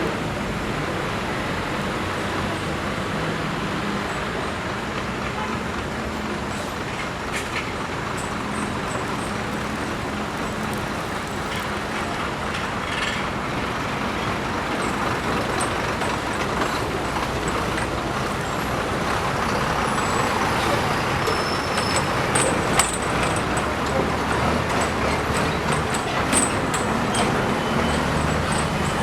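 Steady road-traffic noise of heavy vehicles such as buses and trucks running, with a few short sharp clicks in the second half.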